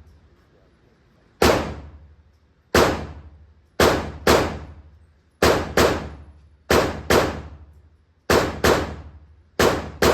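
Gunshots at a shooting range: about a dozen shots, mostly in quick pairs about half a second apart, each dying away briefly after the report.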